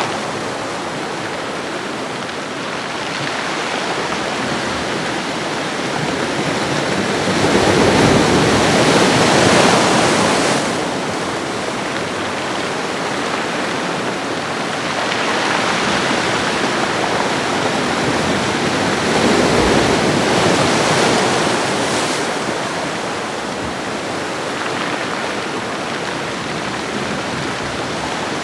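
Ocean waves washing onto a shoreline: a steady rushing that swells and ebbs, rising to its loudest about eight to ten seconds in and swelling again from about fifteen to twenty-two seconds.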